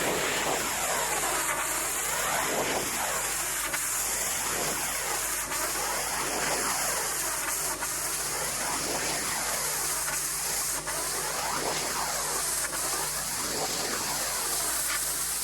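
Pressure washer water jet spraying steadily, a loud hiss that swells and fades about once a second as the wand sweeps back and forth, with a low steady hum under it.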